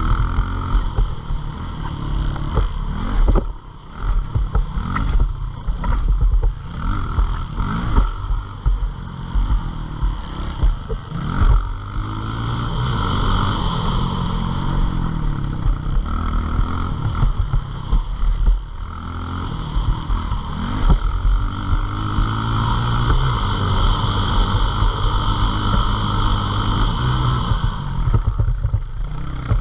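Pit bike engine revving hard, its pitch climbing and dropping again and again as the throttle opens and closes through gear changes. In the second half it holds a steadier high-revving note for several seconds.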